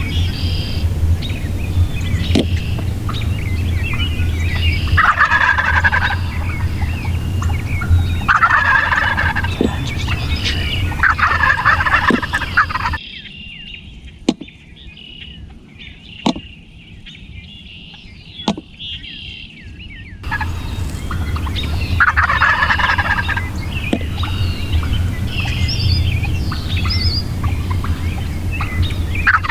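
Wild turkeys gobbling, about five gobbles of a second or so each, with songbirds chirping in the background. A steady low hum underlies most of it but drops away for a quieter stretch in the middle, where a few sharp clicks are heard.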